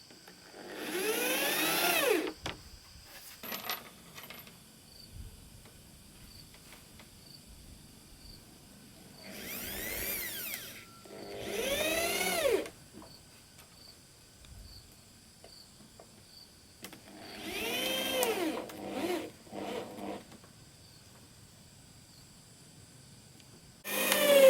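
Power drill run in five short bursts, each winding up in pitch and back down, with small knocks between the bursts.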